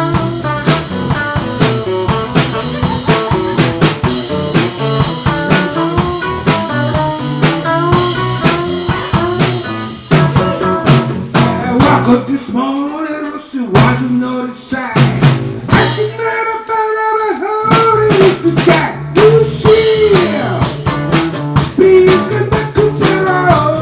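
Live blues band playing an instrumental passage on drum kit, bass and guitar. From about ten seconds in the band drops back in breaks, and a lead line with bent notes plays over sparse drum hits.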